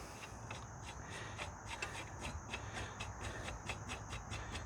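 Quick, light rubbing and scraping strokes, about four a second, typical of a small brush spreading anti-seize compound on metal parts.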